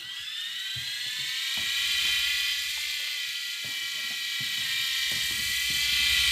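Small toy RC helicopter's electric motor whining as it spins up over the first couple of seconds, then holding a steady high whine with a fast low rotor flutter underneath.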